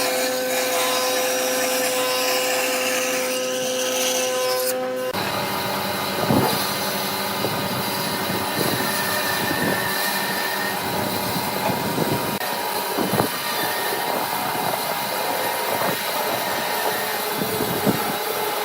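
Wood lathe running with a steady motor hum, then, after an abrupt change about five seconds in, a turning tool cutting the spinning wood with a harsh scraping noise and irregular sharper catches.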